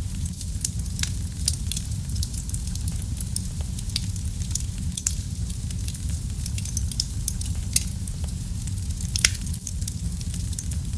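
Wood fire burning in a fireplace: a steady low rumble of flames with frequent sharp crackles and pops, two louder pops near the end.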